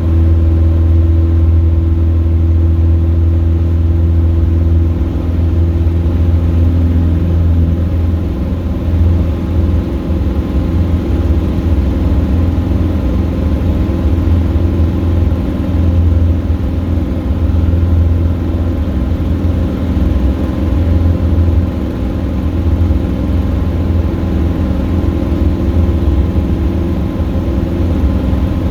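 Piston engine of a Robin DR400 light aircraft running steadily, with a low, even hum, heard from inside the cockpit.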